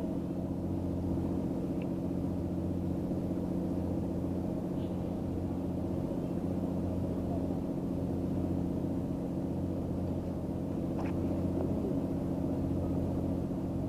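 An engine running steadily at a constant speed, giving an even low drone, with a couple of faint ticks over it.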